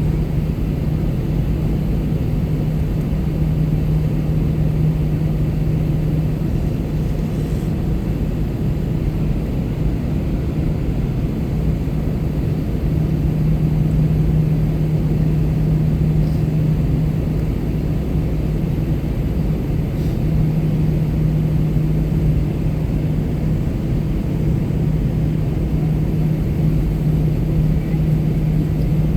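Steady drone of an Airbus A321-200's engines and airflow heard from inside the passenger cabin, with a low hum that swells and fades every several seconds.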